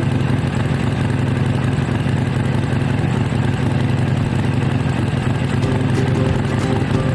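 Harley-Davidson Forty-Eight's air-cooled 1200 cc V-twin idling steadily through an aftermarket-style exhaust, with a low, even pulsing beat and no revving.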